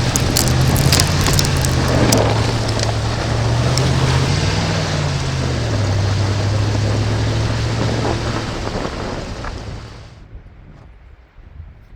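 Truck driving on a snow-covered, unplowed gravel road: engine running under load with its pitch rising and dipping, over heavy tyre and road noise, with a few sharp clicks in the first few seconds. The sound drops away suddenly about ten seconds in, leaving only a faint noise.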